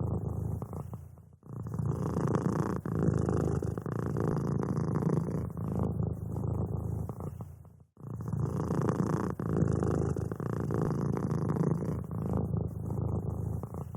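Domestic cat purring steadily and close up, a low rumbling flutter that briefly drops out about a second and a half in and again about eight seconds in.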